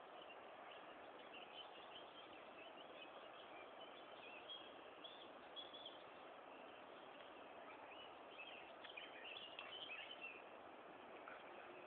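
Faint, scattered bird chirps over a steady hiss.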